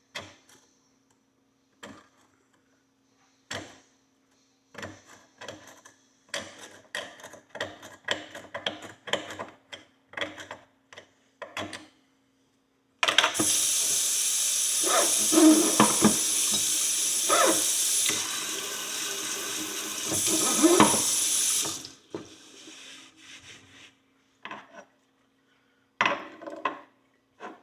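A run of short scraping and clicking strokes from hand tools working at a rusty metal horseshoe. Then a kitchen tap runs for about nine seconds, with a few knocks under the stream, and shuts off abruptly. A few more clicks follow near the end.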